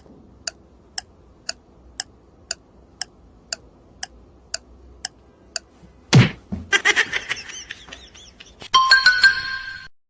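Even ticking, about two ticks a second, then a loud thump about six seconds in, followed by a jumble of noisier sounds with steady tones near the end.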